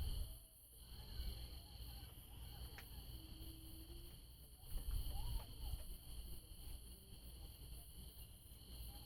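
Night insect chorus: a steady, unbroken high trill at two pitches, crickets or similar. A low rumble on the microphone sits underneath and swells briefly about five seconds in.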